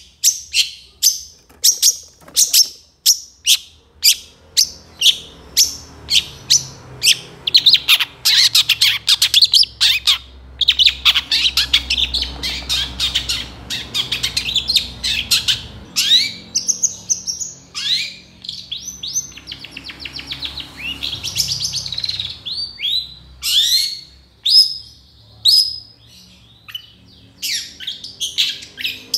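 Long-tailed shrike (cendet) singing without a break: strings of short, sharp notes at about three a second, then dense rapid trills, then whistled notes sweeping up and down in pitch. The varied song is typical of a cendet in full voice, packed with fill-in phrases.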